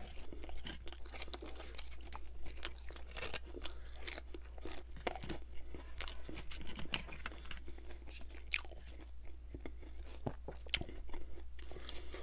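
Close-miked chewing of a crispy McDonald's Chicken McNugget: a bite, then steady irregular crunching and wet mouth sounds.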